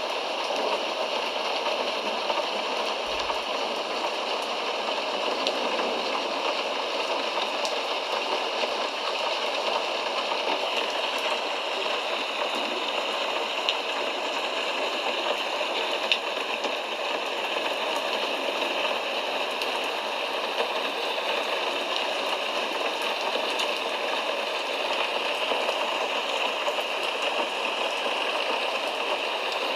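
Steady rain, an even hiss with scattered ticks of single drops.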